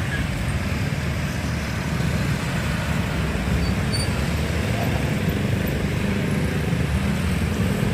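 Road traffic at a railway level crossing: a steady rumble of vehicle engines and tyre noise, with no single event standing out.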